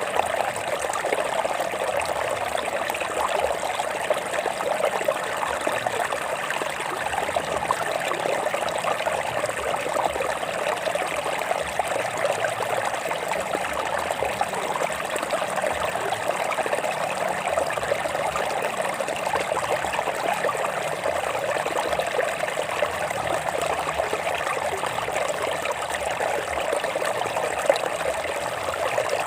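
Stream water running and trickling over rocks, a steady, unbroken babble.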